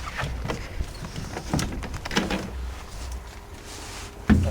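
Clicks and knocks of the school bus's entry door being worked, with one loud thump near the end, over a low rumble of handling noise on the microphone.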